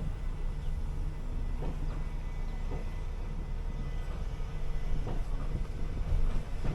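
City bus engine running with a steady low drone, with a few short knocks and rattles scattered through it.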